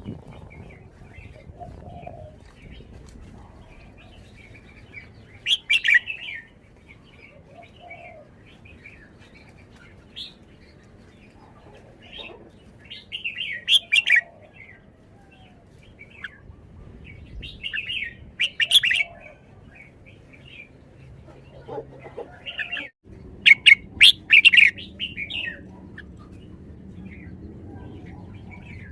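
Red-whiskered bulbul singing: short, loud bursts of chirping song every few seconds, with softer notes in between and the loudest run of phrases about four-fifths of the way in.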